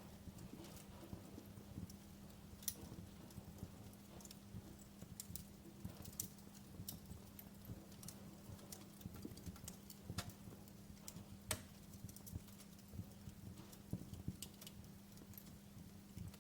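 Wood fire crackling: irregular sharp pops and snaps at uneven intervals over a steady low hum.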